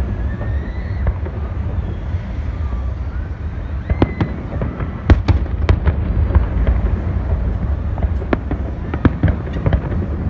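Fireworks display: a steady low rumble of bursts, with sharp, loud bangs coming in quick succession from about four seconds in.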